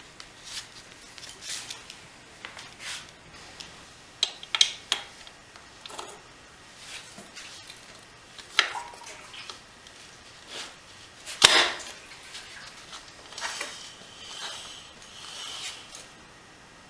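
Handling noises from setting up a homemade portable motorcycle jack: scattered clicks and knocks, the loudest a single sharp knock about eleven seconds in, with a scraping rustle near the end.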